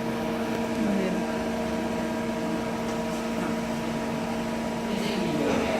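CNC lathe running with a steady, even hum made of several constant tones.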